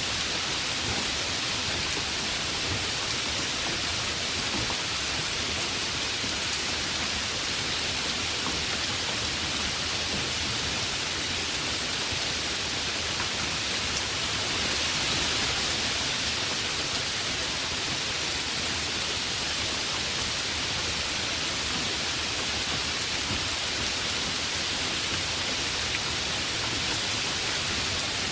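Heavy rain falling steadily, a dense even hiss of drops on surfaces, swelling slightly about halfway through.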